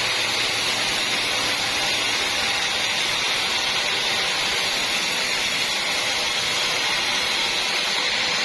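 Sawmill machinery running steadily: an even, hiss-like noise that holds the same level throughout, with no change in pitch.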